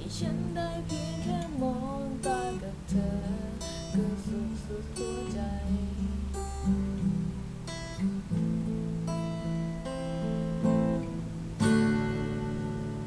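Acoustic guitar strummed and picked through a slow song, with a melody line over the chords. About eleven and a half seconds in, a final chord is strummed and left to ring out.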